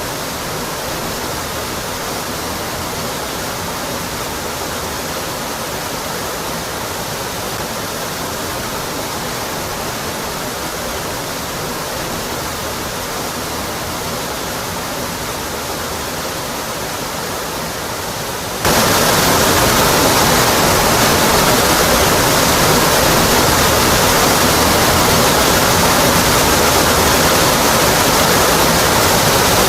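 Rocky Brook Falls waterfall: a steady rush of water falling onto rock. About two-thirds of the way through it suddenly becomes louder and brighter, then holds steady again.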